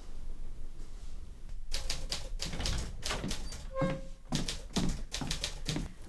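Rapid, irregular clicking and tapping, several sharp strikes a second, starting about a second and a half in. A short pitched tone sounds briefly near the middle.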